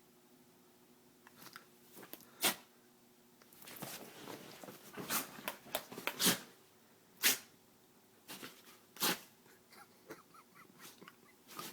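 A dog sneezing repeatedly in short, sharp bursts with snuffling between them, the excited sneezing a dog does in play.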